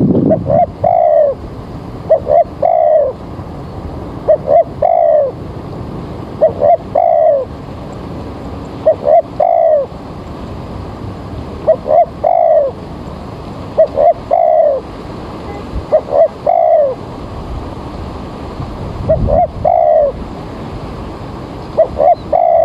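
Spotted dove (tekukur) cooing: a phrase of two short notes and then a longer falling coo, repeated about every two seconds with one longer pause, over a steady background hiss.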